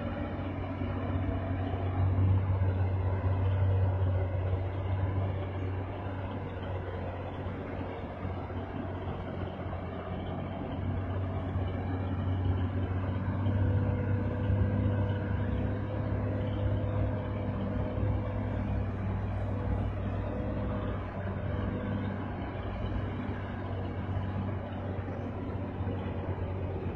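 Bedford truck's engine running steadily, a low drone whose pitch and loudness shift slightly.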